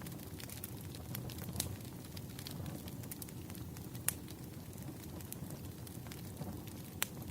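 Wood fire crackling: a low steady rumble of burning logs with scattered sharp pops, the loudest about four seconds in and again near the end.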